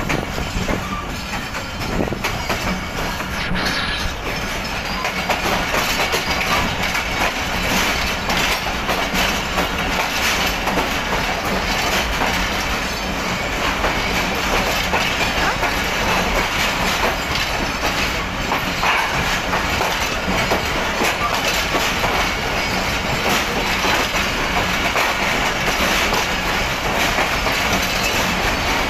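Passenger train's coach wheels rolling over the track, a steady rumble with frequent clicks and clacks over rail joints and points, heard from an open coach window.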